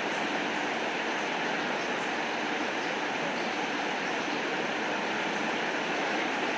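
Steady rain falling, an even hiss with faint scattered ticks.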